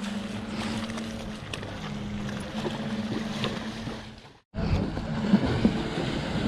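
Jet ski engine running steadily, its pitch dipping for a moment about two seconds in. The sound cuts out abruptly about four seconds in, then comes back louder and rougher, with wind on the microphone.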